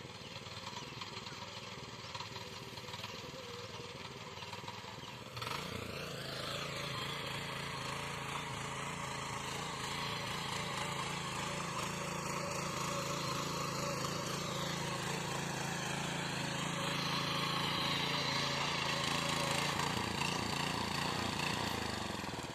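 Power weeder (mini tiller) engine running steadily. About five seconds in it jumps louder and runs harder, then begins to die away near the end.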